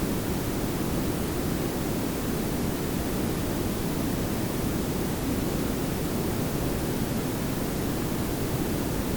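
Layered pink and brown noise, a steady unchanging hiss over a low rumble, heaviest in the lower register.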